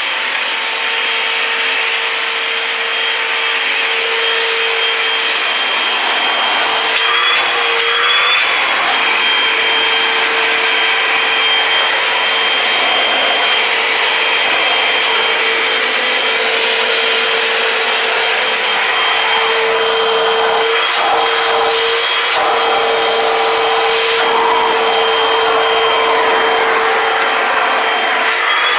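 Eureka Airspeed Multicyclonic Pet upright vacuum running at full power, a steady motor whine over a rush of suction air. About six seconds in a lower rumble joins, and the whine dips briefly a few times as the load on the motor changes.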